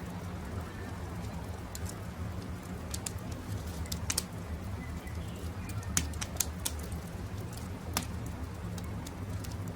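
Campfire crackling, with sharp pops scattered irregularly over a steady low rumble, and birds calling faintly in the background.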